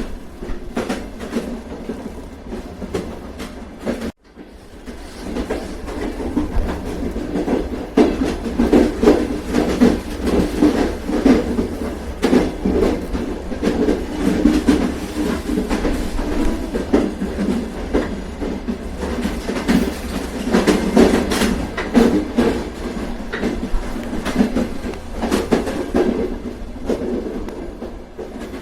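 Train running along the track: a steady rumble with wheels clicking over rail joints. The sound cuts out for an instant about four seconds in, then builds back and runs louder.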